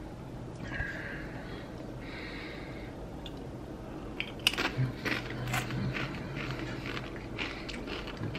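Crunchy chips being bitten and chewed: a quiet start, then from about halfway through a run of sharp, irregular crunches.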